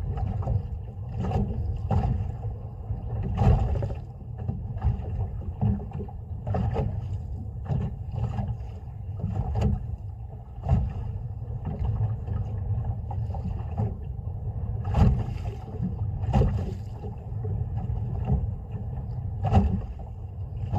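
Small boat at sea: a steady low wind rumble on the microphone, with irregular knocks and splashes roughly every second or two as the waves slap the rocking hull.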